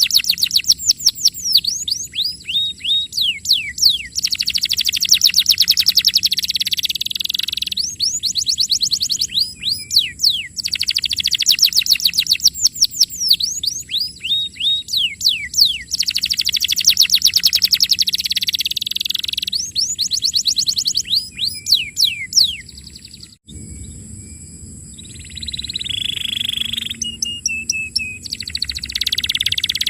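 Domestic canary singing in long, fast trills: rapid runs of repeated notes and quick downward-sweeping whistles. About 23 seconds in the song cuts off abruptly and goes on more quietly with sparser notes.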